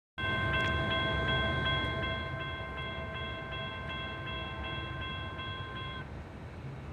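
A freight locomotive's multi-note air horn sounding one long held chord, cutting off about six seconds in, over the low rumble of the train.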